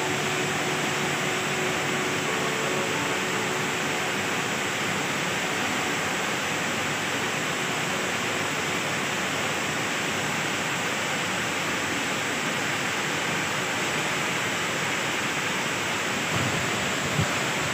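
Steady, unbroken rush of a waterfall, with a soft knock or two near the end.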